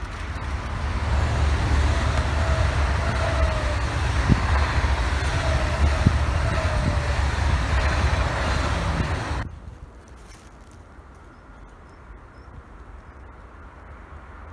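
A train passing close by: a loud rumble with faint sliding whines and a few knocks, which cuts off suddenly about nine and a half seconds in, leaving quieter outdoor background.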